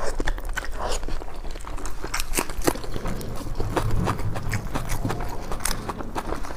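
A person chewing and biting food close to the microphone: irregular crunches and wet mouth clicks.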